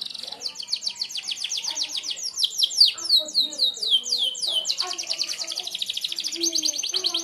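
Canary singing a long, fast trill of repeated downward-sweeping notes, about ten a second, its pace and note shape changing every second or two. This is the rapid 'tembakan' (shot) phrasing that keepers play as a master song for other birds.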